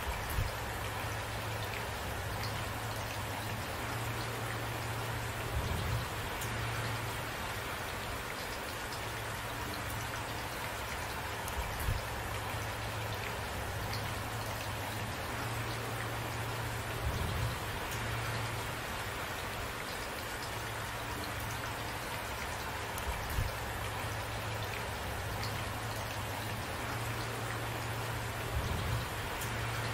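Steady rain falling on a surface, individual drops pattering through a constant hiss. A brief soft low thump recurs about every six seconds.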